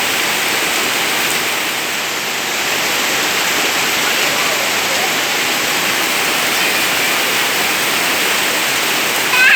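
Heavy rain falling with a steady, dense hiss. A high-pitched voice calls out right at the end.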